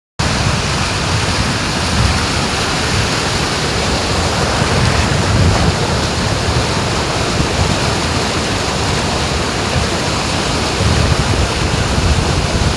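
Waterfall's water rushing in a steady loud roar, with wind buffeting the microphone in low gusty rumbles that grow stronger near the end.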